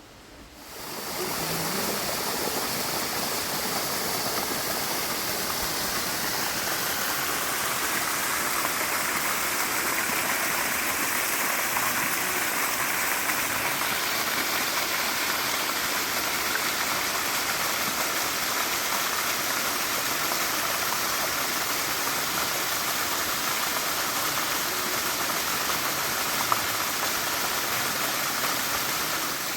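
Waterfall water rushing in a steady, even wash, fading in over the first second or two.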